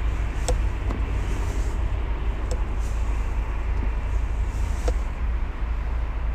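A stationary car's engine idling, heard from inside the cabin as a steady low rumble, with a few faint clicks now and then.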